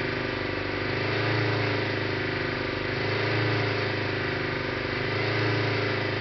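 Mercedes-Benz turbo diesel engine running at a steady couple thousand rpm with propane being fed in by push button, its note swelling and easing slightly about every two seconds. The propane is picked up as extra fuel.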